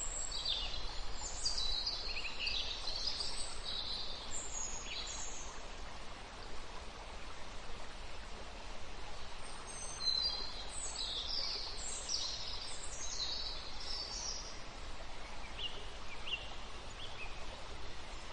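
Small birds chirping and twittering in quick runs of short high notes, in two busy spells with a quieter gap between them, over a steady background noise.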